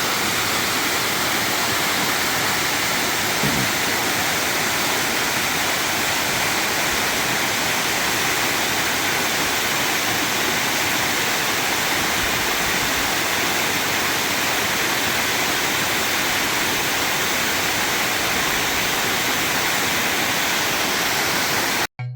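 Waterfall running steadily: a dense, unbroken rush of falling water that cuts off suddenly near the end.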